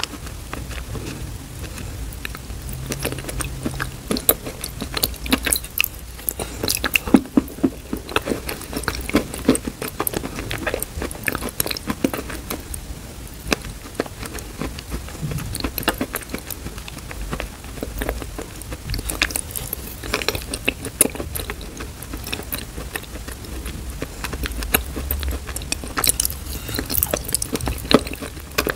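Close-miked wet chewing and mouth sounds of eating thick, earthy clay paste, a steady stream of irregular sticky clicks and smacks, with the metal spoon scooping the paste from a glass bowl.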